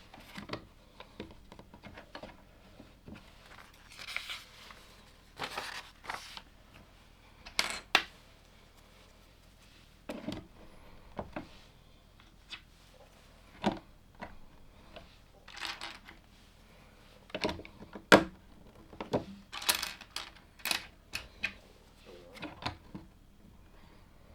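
LEGO plastic bricks being handled and pressed together: irregular small clicks and knocks, with a few short rattles of loose pieces being sorted through, the loudest click about eighteen seconds in.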